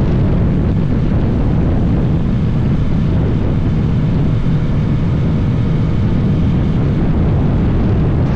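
Steady, loud roar of wind and road noise from a 2022 BMW S1000RR ridden at speed, recorded by a rider-mounted microphone, with the inline-four engine running underneath. The level holds even throughout, with no gear changes or revving standing out.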